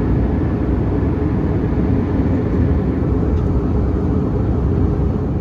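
Steady cabin noise of an Airbus A319 in descent: a constant low rumble of engines and airflow, heaviest in the bass.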